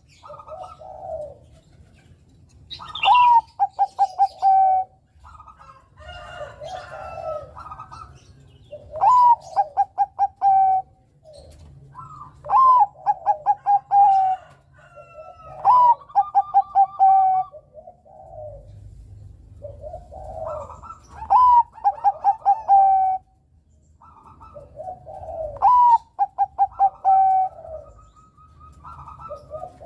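Zebra dove of the Bangkok perkutut type cooing: six loud phrases, each a high opening note, a quick run of short clipped pulses and a held lower note. Softer, shorter calls fill the gaps between phrases.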